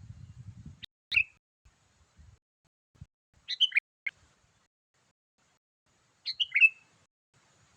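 Sooty-headed bulbul (kutilang) calling: three short, quick phrases of a few chirpy notes, spaced about two and a half to three seconds apart. A faint low rumble sounds during the first second.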